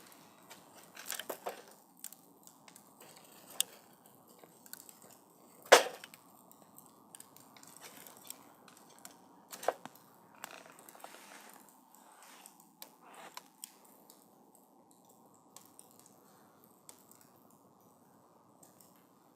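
Wood campfire crackling: scattered sharp pops and cracks over a soft steady rush of burning wood, the loudest pop about six seconds in, thinning to only faint occasional ticks in the last few seconds.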